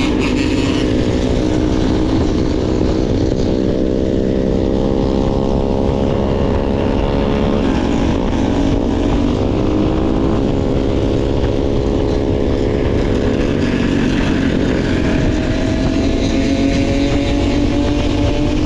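Dirt bike engine running under way at a fairly steady speed, its pitch sagging a little around the middle and climbing gradually near the end, with wind rush over it.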